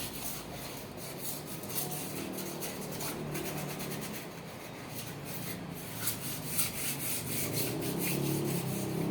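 Repeated rubbing and scrubbing strokes on truck valve rocker arms as they are washed clean, a continuous scratchy scraping with uneven strokes.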